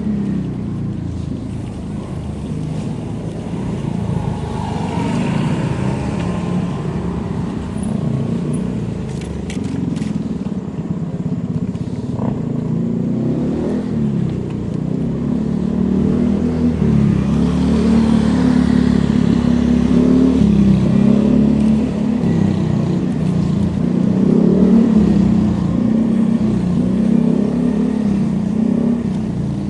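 Steady vehicle riding noise, a low wavering rumble that grows louder about halfway through.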